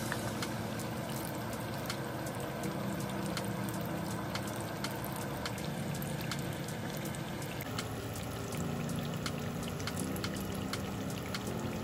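Battered eggplant slices deep-frying in hot oil in a pan: a steady sizzle with a dense crackle of small pops.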